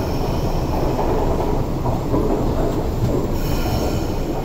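Inside a Hyundai Rotem EMU carriage on the MTR East Rail Line: the train's steady low rumble, with thin high-pitched tones sounding briefly at the start and again about three and a half seconds in.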